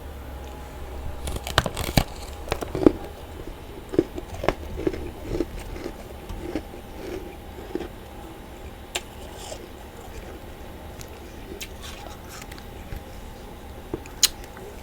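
A person biting into and chewing crunchy freezer frost. Loud, sharp crunches come between about one and three seconds in, then a run of softer chewing crunches, and a few more sharp crunches near the end.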